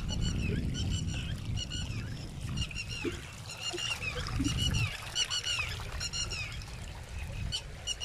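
Small birds calling: short, high chirps repeated every half second to a second. Under them, wind rumbles on the microphone, easing off about five seconds in.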